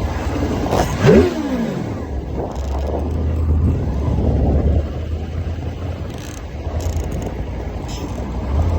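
Dirt bike engine revving hard about a second in, its pitch climbing quickly, then running on under a steady low rumble.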